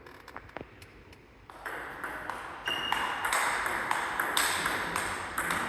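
Table tennis ball clicking off the bats and table in a rally, with a brief high squeak near the middle. Background noise in the hall rises about a second and a half in.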